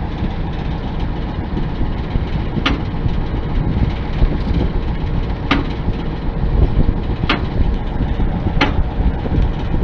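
Combine harvester's engine running steadily, with a sharp click every couple of seconds as the sieves are adjusted with a wrench.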